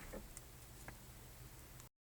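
Faint, irregular ticks in a Toyota Prius cabin, the abnormal noise the owner suspects comes from inside the dashboard, over a low rumble. The sound cuts off suddenly near the end.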